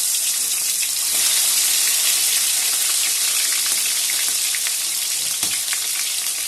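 Prawns sizzling in hot oil in a kadai, a steady hiss with small pops and crackles that grow more frequent in the second half.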